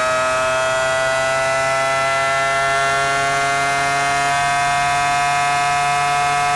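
Formula 1 V10 engine heard onboard at high revs under full throttle, its pitch climbing slowly and steadily in a high gear.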